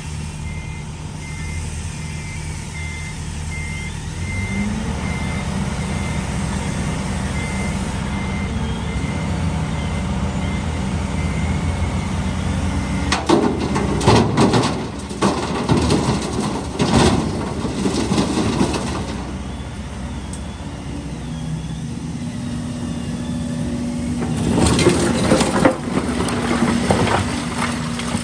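Diesel engines of an excavator and trucks running steadily. A reversing beeper sounds about twice a second for the first several seconds, and an engine revs up about four seconds in. Two spells of loud clattering and scraping follow as concrete rubble is handled, one of about six seconds midway and a shorter one near the end.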